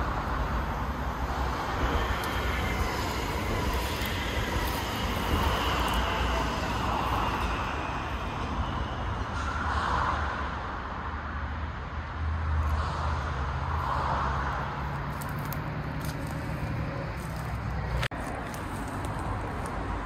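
A train rolling past: a steady rumble of wheels on rails that swells every few seconds, broken once by a brief dropout near the end.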